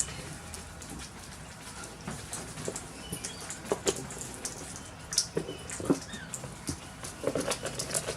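Parrots feeding on seed: irregular small clicks and ticks from beaks pecking and cracking seed, with a few short chirps, the clicks coming thicker near the end.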